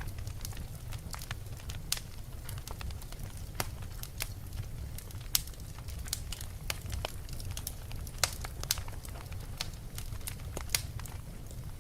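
Wood fire in a fireplace crackling steadily over a low rumble of the flames, with irregular sharp pops, the loudest about five, eight and eleven seconds in.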